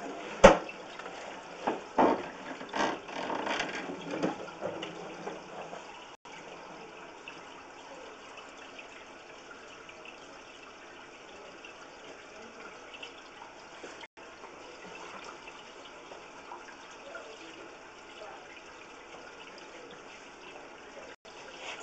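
Running water with a steady hiss. A sharp knock comes about half a second in and a few more knocks and clatters follow in the first four or five seconds.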